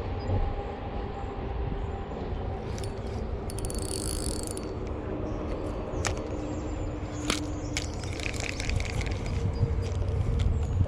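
Fishing reel being cranked, its gears turning with a mechanical whir and a run of clicks about six to ten seconds in, over a steady low rumble of creek water and wind.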